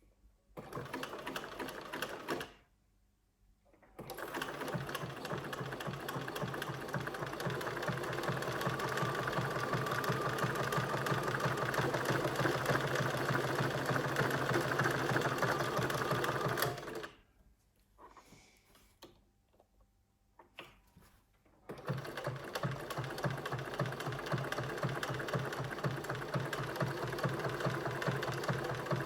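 Bernina 1230 sewing machine running at a steady, fast stitching rhythm in three bursts: a short one near the start, a long one of about thirteen seconds, and another near the end, with a few light clicks in the pauses.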